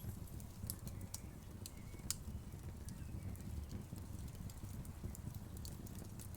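Wood fire crackling: a steady low rumble of the flames with scattered sharp pops and crackles, one louder pop about two seconds in.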